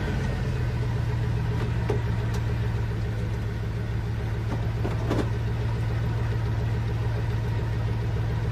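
A motor vehicle engine idling steadily with a low, even hum, just after it has been started. A few faint clicks sound over it.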